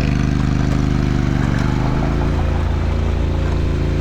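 Motorcycle engine running steadily, its pitch dipping slightly past the middle.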